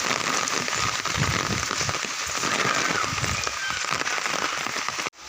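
Heavy rain falling and pattering on surfaces, a dense steady hiss that breaks off abruptly just before the end.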